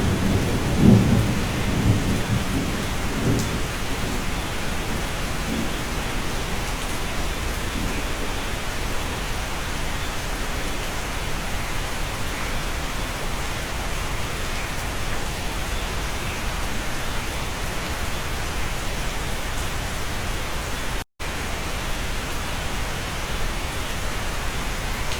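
Steady rain heard from inside a cabin, with a low rumble of thunder in the first few seconds that dies away. The sound cuts out completely for a moment near the end.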